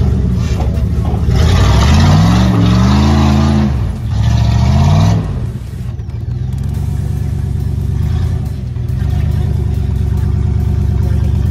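Jeep engine revving up twice in the first few seconds, its pitch rising, with a rushing noise alongside, then settling into a steady low-rev run.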